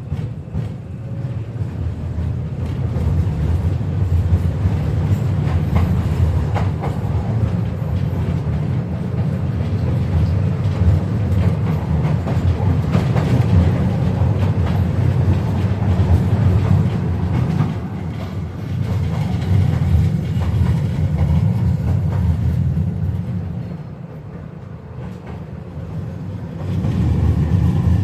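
KTM-5M3 tram running along the track: a steady low rumble of wheels and running gear on the rails, with scattered clicks and clacks over rail joints. It goes quieter for a few seconds about three-quarters of the way through, then grows louder again near the end.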